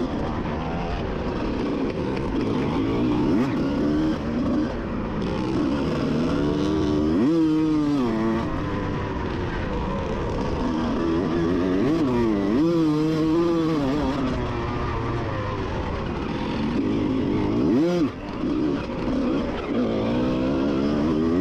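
1988 Honda CR125's single-cylinder two-stroke engine racing, its pitch rising and falling as the throttle opens and shuts, with sharp drops and climbs in revs three times.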